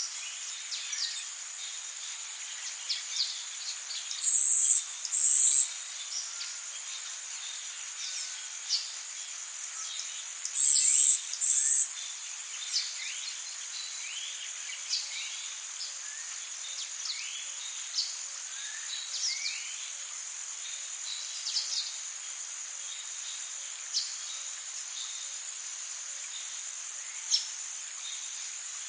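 Rainforest insects keep up a steady high-pitched drone, broken twice by a pair of loud, short high bursts, about four seconds in and again near eleven seconds. Scattered short bird chirps and calls sound over it throughout.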